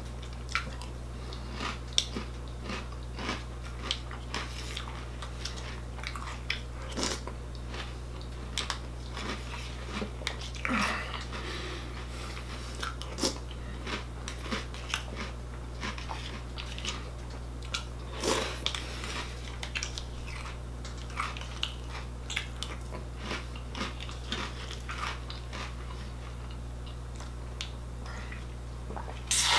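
Close-up crunching and chewing of Cookie Crisp cereal in milk, with a spoon clicking against a plastic bowl, over a steady low hum.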